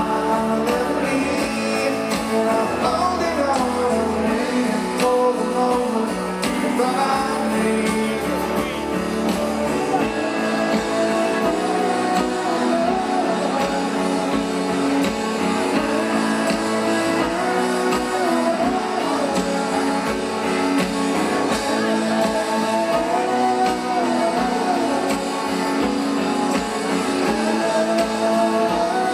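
Live rock band playing a song, electric guitars and drums with a voice singing along, recorded from the audience.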